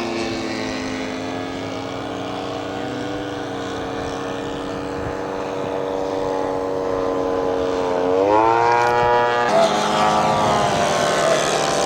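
Radio-controlled scale model airplane engine running in flight, a steady drone that rises in pitch about eight seconds in.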